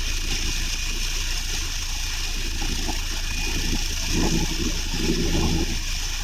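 Propeller aircraft's piston engine running steadily at low power while taxiing, heard at a distance under a steady background hiss.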